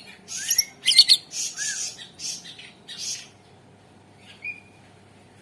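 Cucak ijo (green leafbird) singing a rapid run of harsh, rasping notes mixed with clicks and short up-slurred whistles, then one short whistle after a pause.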